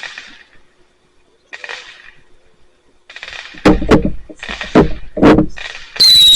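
Consumer fireworks going off: a few faint pops, then a quick string of loud, sharp bangs about halfway through, and a loud whistle gliding down in pitch that starts just before the end.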